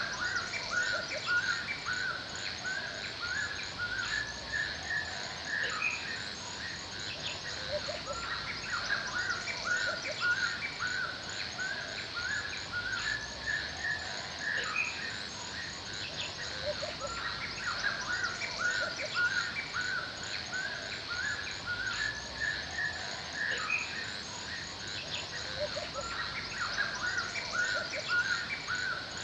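Birds chirping in quick, short repeated notes throughout, over a steady high hiss with fast high-pitched ticking, like insects.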